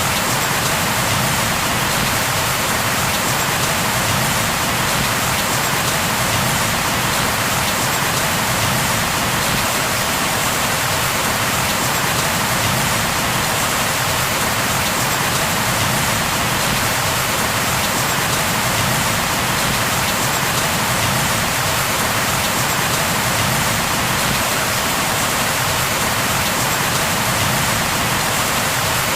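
Steady, even rain falling on a surface, a dense continuous patter with no thunder or breaks.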